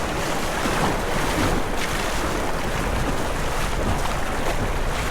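Rushing whitewater around a kayak running rapids: a steady loud wash of churning water with splashing, and wind buffeting the microphone.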